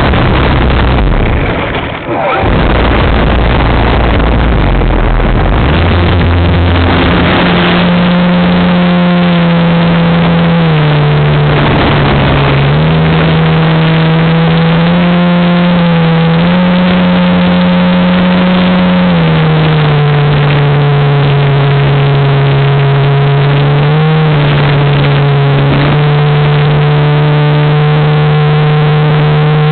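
Super Cub DSM RC plane's electric motor and propeller, heard from a wing-mounted camera under heavy wind rush on the microphone. The motor's steady tone comes in several seconds in and then steps up and down a few times with throttle changes.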